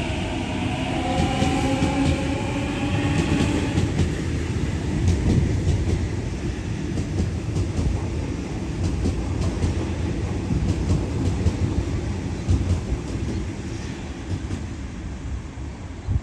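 Sydney Trains Waratah A-set electric train pulling away: a whine of several tones rising in pitch for the first few seconds as it accelerates, then a steady rumble of wheels on rail with scattered clicks over the track joints, dropping off near the end.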